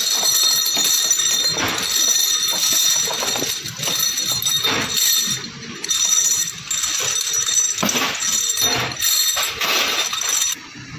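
Small metal parts clinking and rattling against each other in irregular clusters, over a steady high-pitched machine whine.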